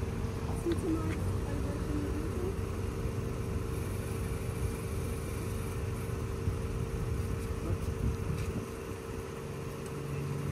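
Steady hum of a running motor vehicle engine over a low traffic rumble.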